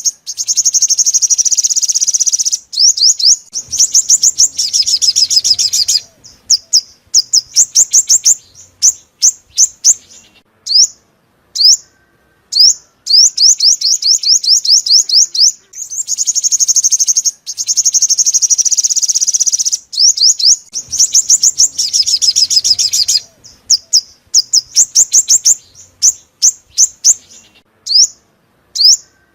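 Sunbird song: rapid series of high, sharp descending notes and fast buzzy trills in phrases broken by short pauses. It is a looped lure recording, the same sequence recurring about every 16 seconds.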